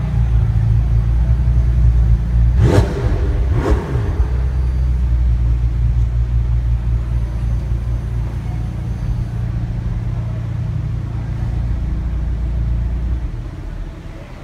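McLaren 720S twin-turbo V8 idling with a steady deep rumble, blipped twice about a second apart roughly three seconds in. The rumble drops away near the end.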